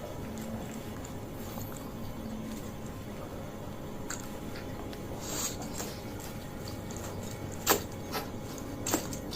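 A person eating fried noodles close to the microphone: quiet chewing with a few short, sharp mouth clicks, the loudest about three-quarters of the way in.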